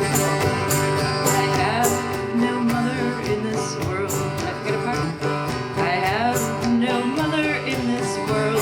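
Acoustic string band playing an instrumental break in an old-time tune: a steadily strummed acoustic guitar under a fiddle melody with slides and wavering notes.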